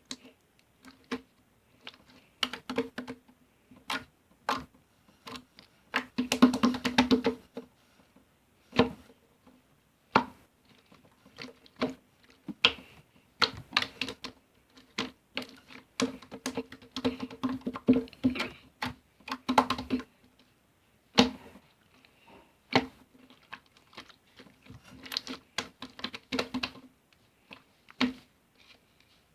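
Irregular sharp taps and clicks on a hard object, each with a slight hollow ring, like keys being typed, with a quick run of rapid taps about six seconds in.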